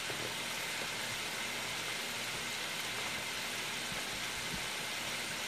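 Hot grease sizzling steadily as a batch of flour-coated chicken wings fries.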